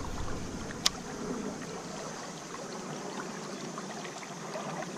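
Creek water running steadily over shallows, with one sharp click about a second in.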